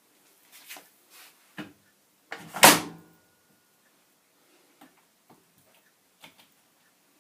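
Washing machine door shut with a clunk about two and a half seconds in, among a few lighter clicks and knocks.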